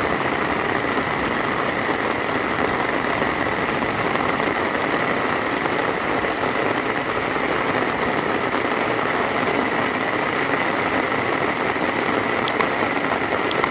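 Heavy rain falling in a steady, even hiss, with a few sharp ticks near the end.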